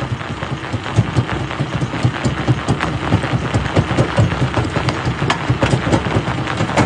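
Jaw crusher running and crushing rock: a steady mechanical rumble with many sharp, irregular cracks and clatters of stone breaking.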